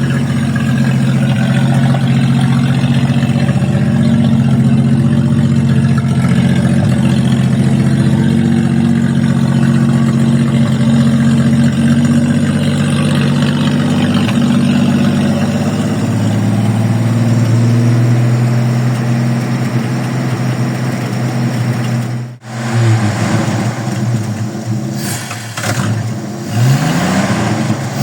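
1941 Chevrolet's straight-six engine running steadily, its note shifting lower about two-thirds of the way through. After a brief break the engine note rises and falls several times near the end.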